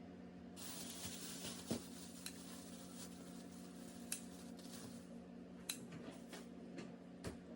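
A handful of light clicks and knocks, spread out, over a steady low hum and a hiss that sets in shortly after the start.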